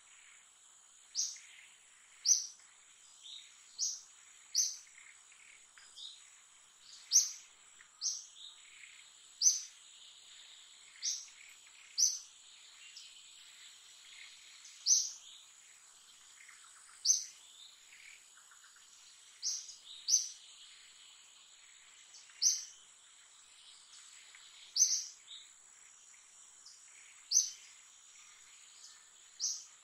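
A bird's short, high chirp repeated about every one to two seconds, over a faint, steady, high-pitched insect drone.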